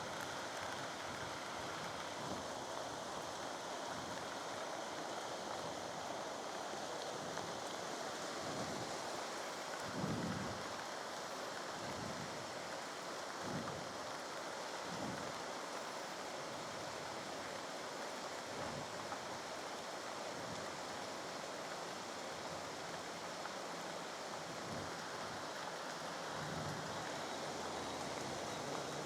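Heavy rain falling steadily, an even hiss, with a few short low thumps between about ten and fifteen seconds in.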